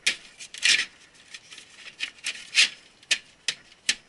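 Parts being handled inside a computer server case: about eight short scrapes and clicks of plastic and metal rubbing, with one longer scrape under a second in.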